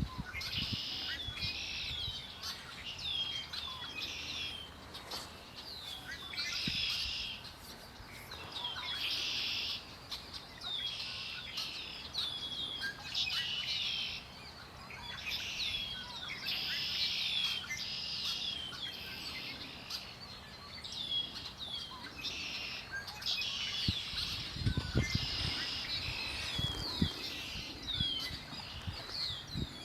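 Several songbirds singing: short sharp chirps repeated every half-second or so, interleaved with longer buzzy, trilled phrases. A brief low rumble comes in near the end.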